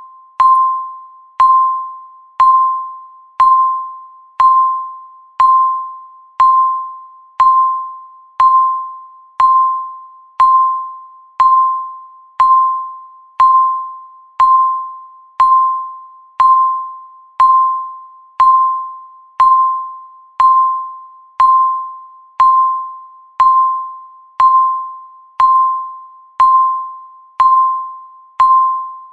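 Countdown timer ticking once a second: each tick is a sharp, bell-like electronic tone that starts suddenly and fades away before the next.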